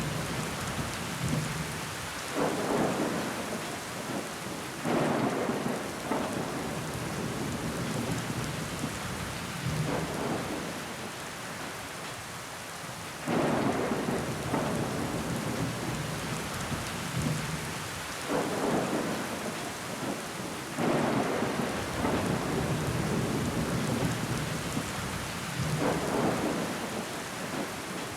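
Steady rain pattering on a window pane with water running down the glass, swelling in loudness in surges every few seconds.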